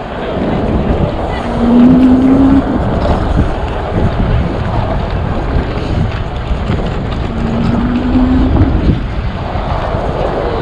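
Wind rushing over the microphone with road and traffic rumble during an e-bike ride, broken twice by a short hum that rises slightly in pitch.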